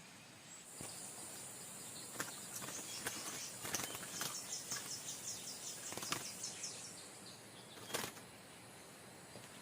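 Outdoor insect buzz, high and steady, with a fast run of evenly spaced ticking notes (about five a second) for a few seconds in the middle, and a few sharp clicks or knocks.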